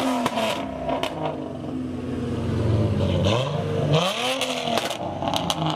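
A car engine revving several times, its pitch sweeping up and back down with each rev.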